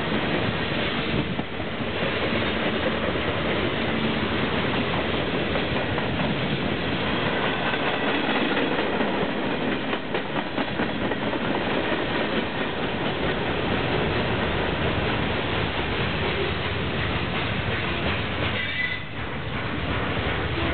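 Cars of a CSX freight train rolling past at close range, steel wheels clattering and rumbling steadily on the rails.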